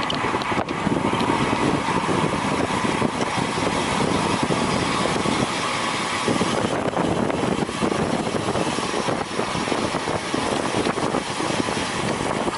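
Steady rush of wind buffeting the microphone, mixed with road noise from a bicycle ridden at race speed.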